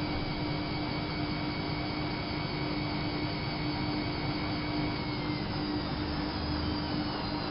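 Whirlpool AWO 5346 washing machine spinning fast, a steady rushing noise with a high motor whine over a constant low hum; about five seconds in the whine starts to fall in pitch as the drum begins to slow down.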